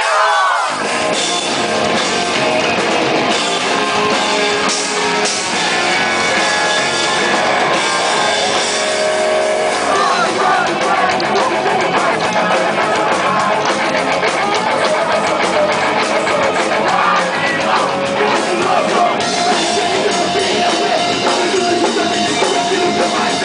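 A heavy rock band playing live: distorted electric guitars, drum kit and singing, loud and continuous.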